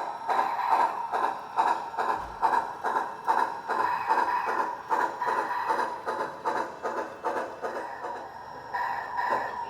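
Soundtraxx Tsunami2 steam sound decoder playing steam-locomotive exhaust chuffs through a small ScaleSounds speaker in an HO model cab-forward, about two to three chuffs a second. The chuffing fades about eight seconds in and gives way to a steadier sound.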